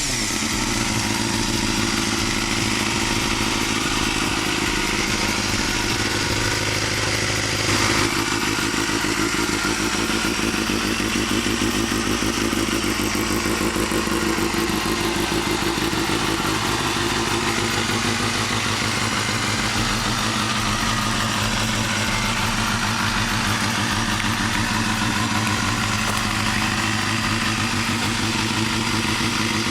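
Modified Honda CBR250 motorcycle engine running steadily through its aftermarket exhaust, briefly louder about eight seconds in.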